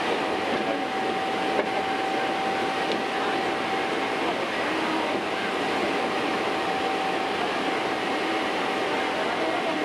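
Hankyu Kyo-train running at a steady speed: an even rumble of wheels on rail, with a steady whine held throughout and a single click about one and a half seconds in.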